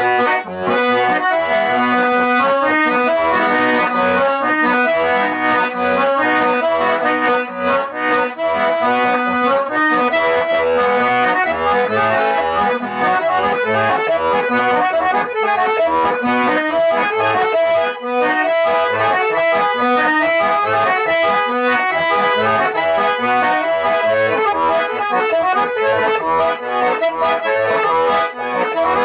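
Accordion playing an instrumental folk tune, melody over held chords, with no singing.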